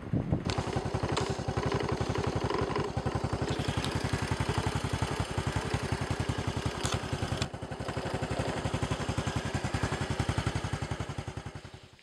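An engine running close by with a rapid, even chugging pulse, dipping briefly past the middle and fading near the end.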